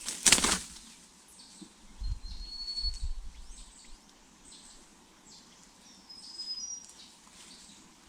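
A brief loud flutter of bird wings at the start, then a few short high chirps from small birds at the nest, with low rumbling in between.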